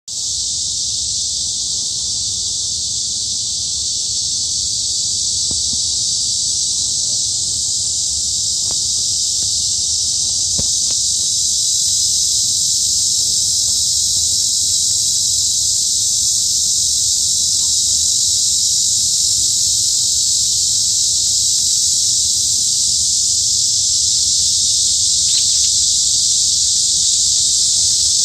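A chorus of cicadas buzzing continuously in a high, unbroken drone, growing slightly louder.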